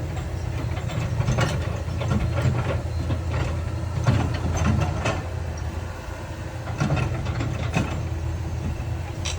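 Heavy diesel earthmoving machinery running steadily, with irregular clanks and scrapes of metal and rock over the engine.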